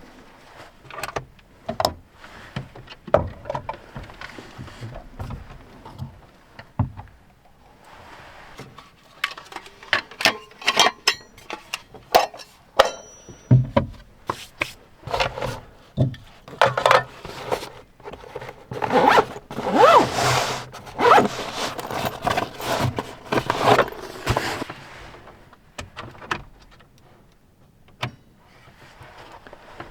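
Gear being handled by hand: a string of clicks, knocks and light clatter with rustling in between, and a longer spell of rustling and scraping a little past the middle.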